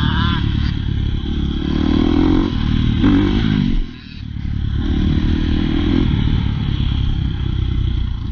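Dirt bike engine revving hard, its pitch climbing and falling with the throttle, with a brief drop as the throttle is chopped about four seconds in before it picks up again.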